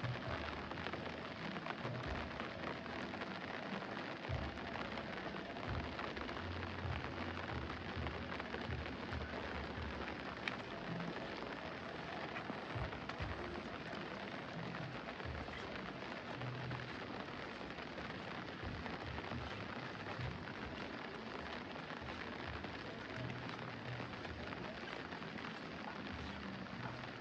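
Heavy rain falling steadily, a dense even hiss with irregular low thumps underneath.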